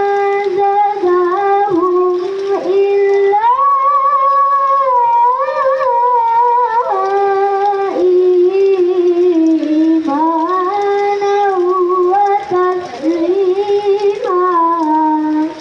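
A young child singing solo without accompaniment, a clear high voice holding long notes with vibrato and ornamented turns, climbing to higher notes about three and a half seconds in.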